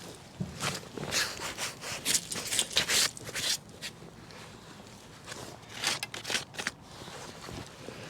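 Irregular scraping and rubbing in two spells, a longer one of several quick strokes near the start and a shorter one about six seconds in.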